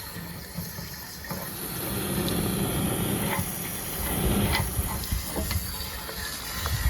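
Water from a garden-hose flushing wand spraying inside an RV water heater tank, a steady hiss that grows louder about two seconds in, washing out the built-up white mineral debris.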